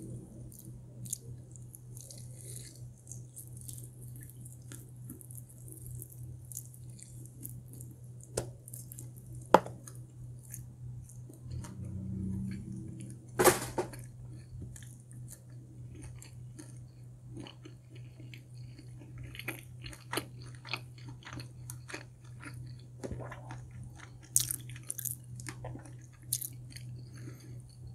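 Close-miked chewing and biting of a buffalo chicken wing: soft wet mouth sounds with scattered sharp clicks and smacks. A steady low hum runs underneath.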